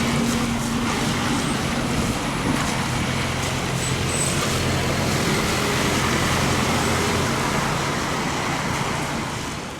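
Street traffic noise with a heavy vehicle's engine running, fading out near the end.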